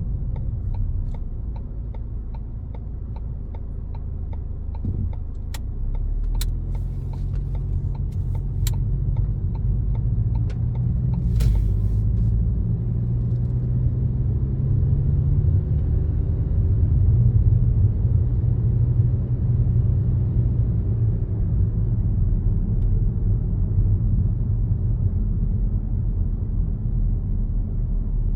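Car driving, with a steady low engine and road rumble. Through the first several seconds there is an even ticking, about two to three a second, and a few sharper clicks follow. Then the engine note rises as the car speeds up and settles into a steady cruise.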